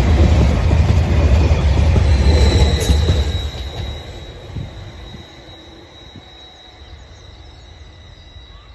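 A passing train rumbles heavily, then fades away after about three and a half seconds. A thin, steady high whine carries on as it recedes.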